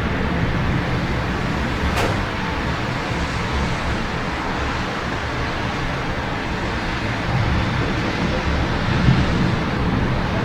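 Steady city ambience in the rain: a constant wash of road traffic noise with a low rumble, and a single sharp click about two seconds in.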